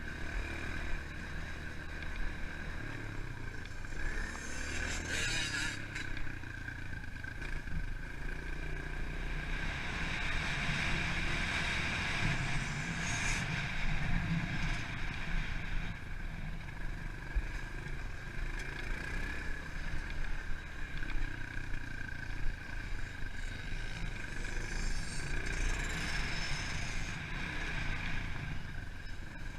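Pit bike engine running continuously as the bike is ridden, its note swelling louder at times.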